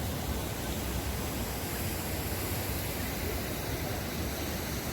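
Steady rushing of falling water from the canal's artificial waterfall, an even hiss at a constant level.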